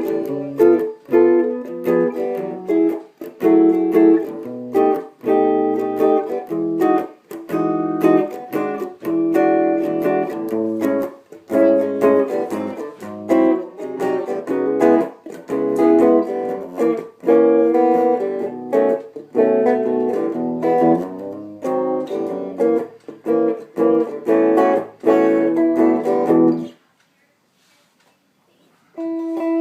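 Guitar played through a homemade Ruby guitar amplifier: a run of picked notes and chords that stops about 27 seconds in, then a short silence before the playing starts again near the end.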